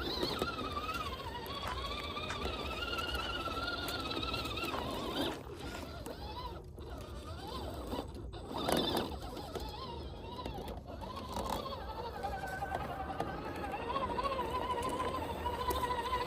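Electric motor and gearbox of a 1/12 scale RC military truck whining, the pitch wavering up and down with the throttle and briefly dropping away several times.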